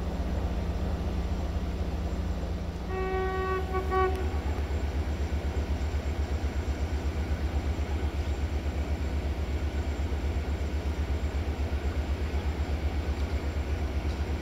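Diesel engine running with a steady, low rhythmic throb. About three seconds in, a train horn sounds one blast of a little over a second.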